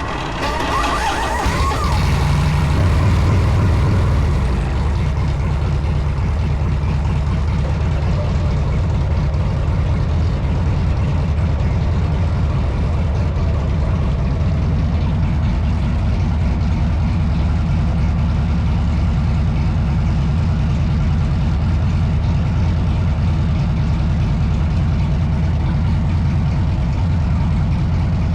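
Motorcycle engine running steadily under way, after the pitch rises and falls in the first two seconds.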